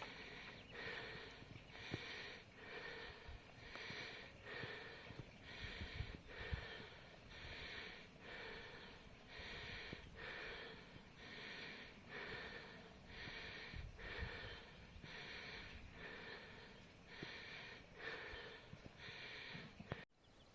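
A person breathing hard close to the microphone, one breath about every second in a steady rhythm, cutting off suddenly near the end.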